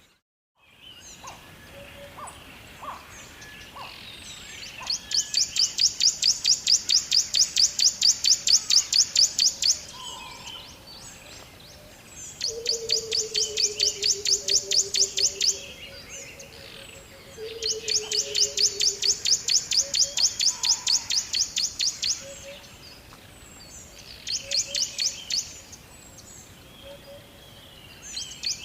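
A bird singing a loud, rapid trill of high repeated notes in runs of several seconds, four times over, after a brief drop-out at the start. A lower, falling whistled call comes in twice near the middle, over a faint steady background hiss.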